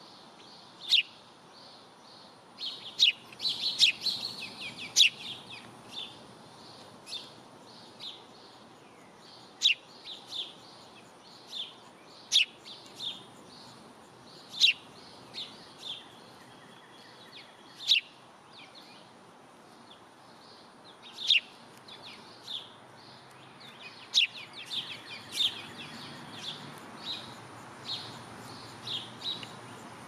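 Songbirds chirping: short, sharp high calls at irregular intervals, with a quick flurry of them about four seconds in and another near the end.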